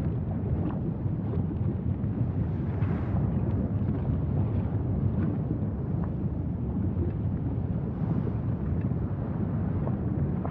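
Wind buffeting the microphone: a steady low rumble of noise with a few faint ticks scattered through it.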